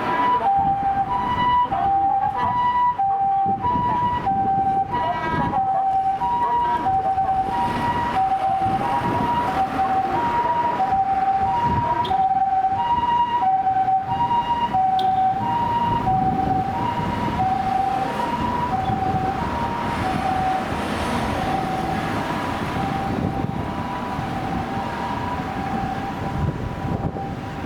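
Japanese ambulance's electronic two-tone "pee-po" siren, alternating a higher and a lower note about twice a second, over passing road traffic. It fades toward the end as the ambulance moves away.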